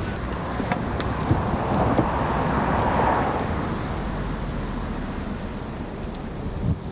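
A vehicle passing close by: a rushing noise that swells to a peak about three seconds in and then fades, with a few sharp clicks along the way.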